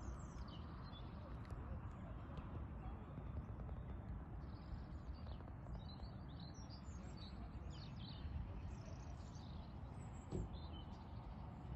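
Small songbirds chirping on and off over a low, steady outdoor rumble, with one brief thud near the end.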